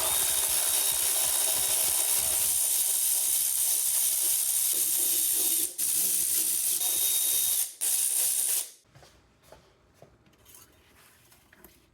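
Compressed air hissing from an air tool in three bursts, a long one and then two short ones, stopping about nine seconds in.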